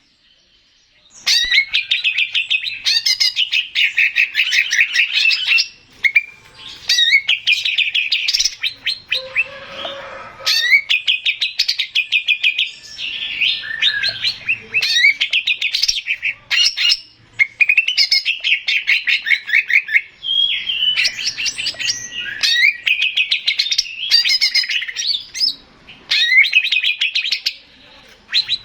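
Male green leafbird (cucak ijo) singing: fast, rapidly repeated trilled and chattering phrases of a few seconds each, broken by short pauses, starting about a second in after a brief silence.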